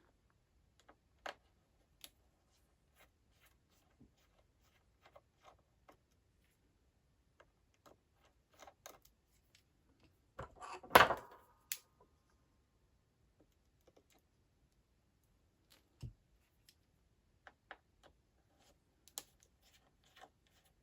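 Scattered small clicks and taps of hand tools being picked up and handled while a small Torx screwdriver is sought and put to use. There is a louder clatter with a brief metallic ring about eleven seconds in, and a single knock about sixteen seconds in.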